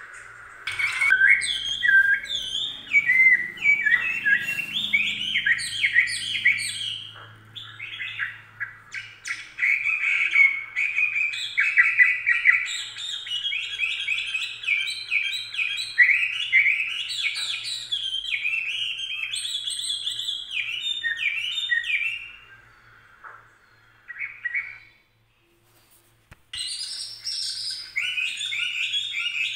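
Songbird chirping and twittering in quick, nearly continuous phrases, breaking off for a second or two about 25 seconds in before starting again.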